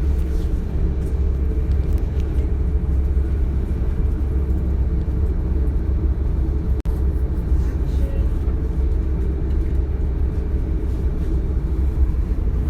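Steady low rumble of a DB Class 425 electric multiple unit running, heard from inside the passenger car, with a momentary dropout about seven seconds in.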